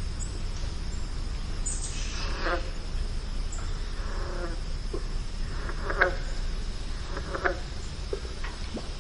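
Outdoor nature ambience: several short bird calls and chirps scattered over a steady low rumble and a faint, steady high-pitched drone.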